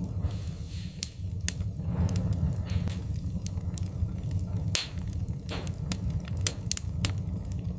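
Wood fire burning in a fireplace: sharp crackles and pops about once a second over a steady low rumble of the flames.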